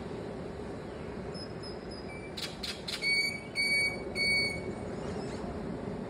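Steady wash of beach surf, with a bird calling in the middle: a few faint high peeps, two short harsh notes, then three short flat whistles about half a second apart, the loudest sounds.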